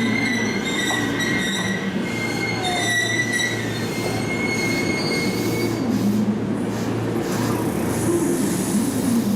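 A train moving through the station with a high metallic squeal from its running gear over a low, steady hum. The squeal fades out about five seconds in.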